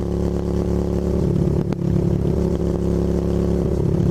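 Motorcycle engine running at a steady cruising speed, heard with wind noise on the rider's helmet-mounted microphone.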